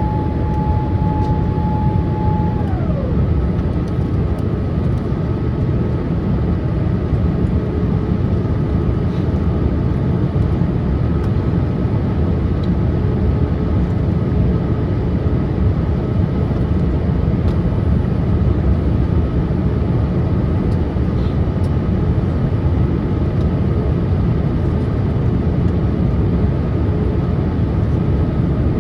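Steady cabin roar of a Boeing 787-8 airliner in descent, from airflow and engines heard from a window seat. A steady whine glides down in pitch about three seconds in and settles lower, while a higher steady tone runs on above the roar.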